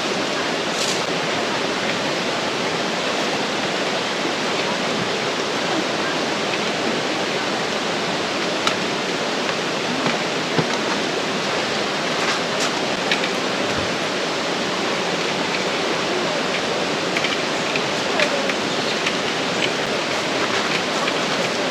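Steady rush of a mountain valley stream, with a few faint ticks scattered through it.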